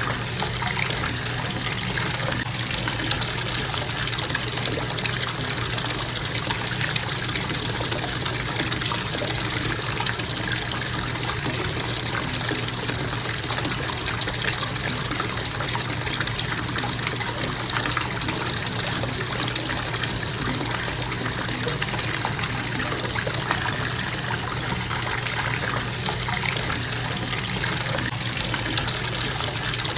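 Bathtub faucet running, a constant stream of water pouring into the tub, steady and unbroken.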